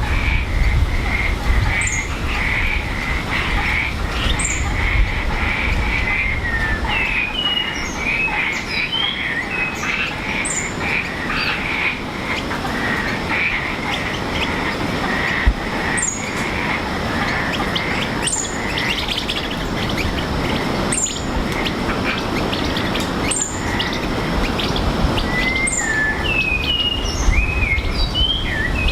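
Rainforest ambience: a steady frog chorus, with birds singing short whistled phrases that come in two spells and a high thin note repeating every two or three seconds.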